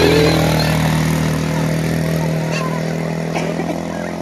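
ATV engine running at a steady speed, slowly getting quieter.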